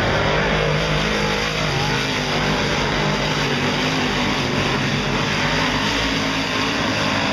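Big-block dirt modified race cars' V8 engines running on a dirt oval, a loud, steady engine sound with several cars heard together.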